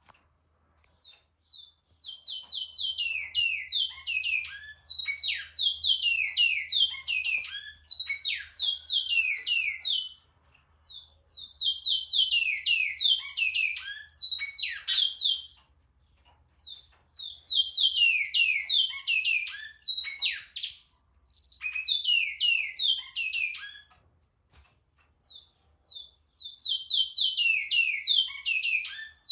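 Bicudo (great-billed seed-finch) singing: four long phrases of rapid notes, each note sliding down in pitch, with short pauses between phrases.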